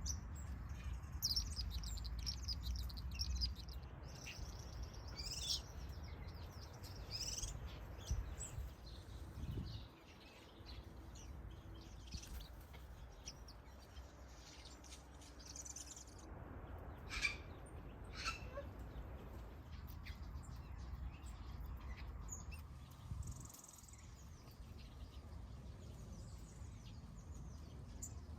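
Small finches and other aviary birds chirping and calling on and off, with a steady low rumble underneath. One call a little past halfway stands out louder than the rest.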